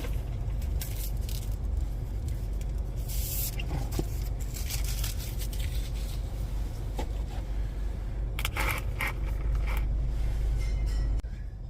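Car engine idling, heard from inside the cabin as a steady low rumble, with scattered rustling and scraping handling noises over it. The rumble drops suddenly near the end.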